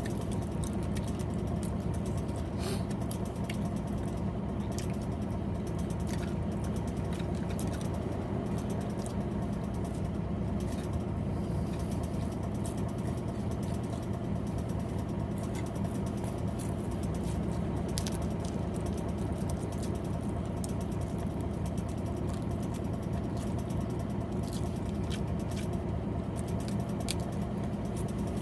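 Truck engine idling steadily, a constant low hum, with scattered light clicks and taps over it.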